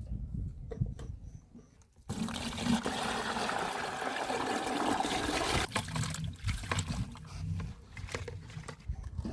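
Water being poured, a rushing splash that starts suddenly about two seconds in and thins to a trickle after about six seconds.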